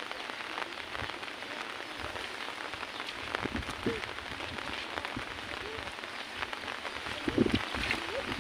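Steady rain falling on the ground and nearby surfaces, with many individual drops hitting close by. A brief louder sound comes about seven seconds in.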